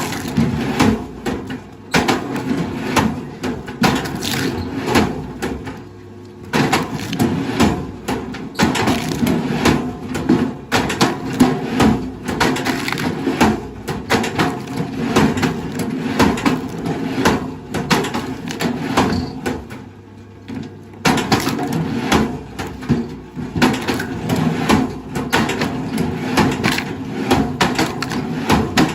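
Wood being crushed and split by heavy machinery: a dense run of cracking and crunching over a steady low machine drone, with two brief lulls.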